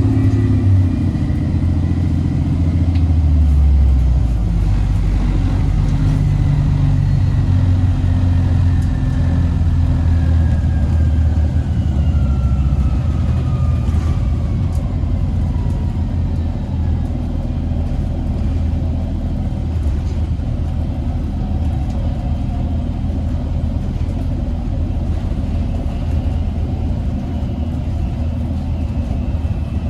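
Inside an Orion VII NG hybrid bus (Cummins ISB diesel with BAE HybriDrive electric drive) under way: a steady low rumble with a high electric-drive whine that falls in pitch through the middle as the bus slows.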